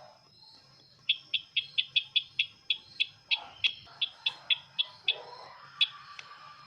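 Bird call played or recorded for luring birds: a quick series of about eighteen short, sharp chips, about three or four a second, starting about a second in and stopping near the end, over a steady thin high tone.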